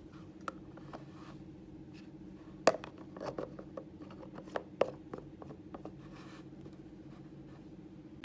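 A series of sharp clicks and light knocks, like small objects being handled, the loudest about a third of the way in and again a little past halfway, over a steady electrical hum.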